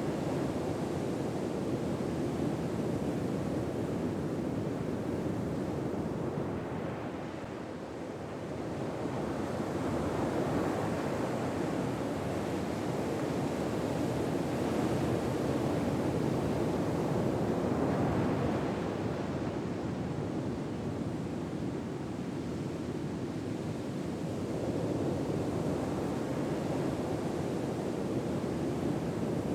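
Ocean waves washing on a shore: a steady rushing surf that swells and eases slowly over several seconds, dipping about a quarter of the way in and building again.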